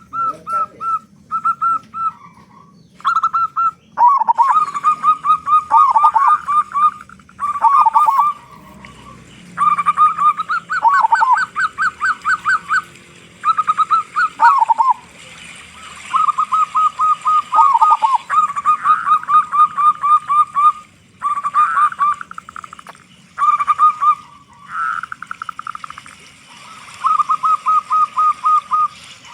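Zebra dove (perkutut) singing in repeated phrases. Each phrase is a quick run of staccato cooing notes, and many end in a drop to lower notes, with short pauses between phrases.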